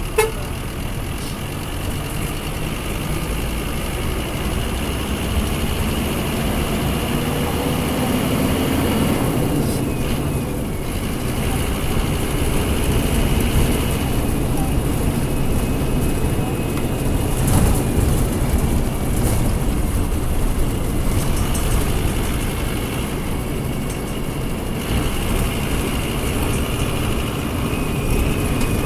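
Scania F250HB city bus's DC09 five-cylinder diesel engine running, with a sharp knock right at the start and the engine pitch rising for a few seconds a little before the middle.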